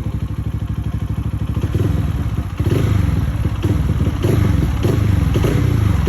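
Lifan KPS200 motorcycle engine running through a newly fitted aftermarket exhaust, very loud. It runs steadily at first, then from about halfway is given short, repeated throttle blips.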